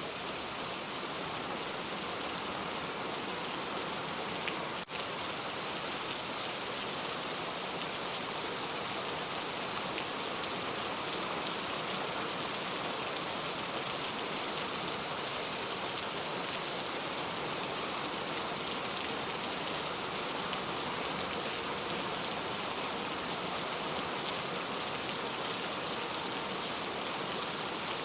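Steady rain falling, an even patter with no letting up, broken once by a very brief dip about five seconds in.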